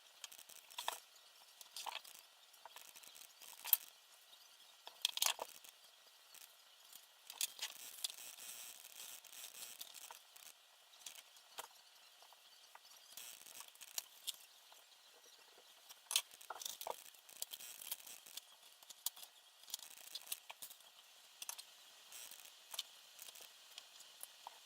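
Small parts being handled during hand assembly of a quadcopter frame: irregular light clicks, taps and rattles, a few of them sharper, with faint hiss between.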